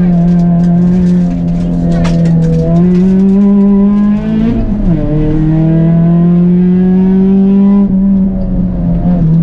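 Peugeot 206 RC Group A rally car's engine heard from inside the cabin, running hard at high revs. Its pitch holds high and slowly climbs, rises, then drops sharply about halfway through as at a gear change, and climbs again.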